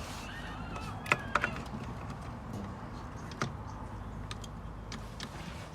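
A few sharp metallic clicks and knocks of transmission parts being handled and seated during assembly of a ZF 8HP automatic gearbox, the loudest about a second in, over a steady low hum.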